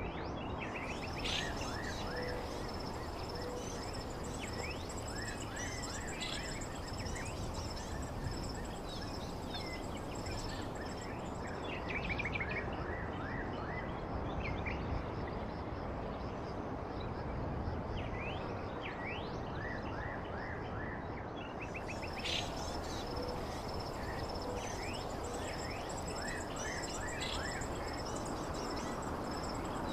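Outdoor ambience: small birds chirping in quick, falling notes over a steady hiss, with a thin, high, steady trill underneath.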